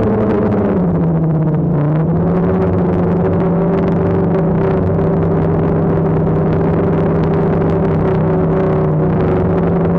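DJI Phantom quadcopter's motors and propellers humming steadily. The pitch wavers and dips in the first couple of seconds, then holds level.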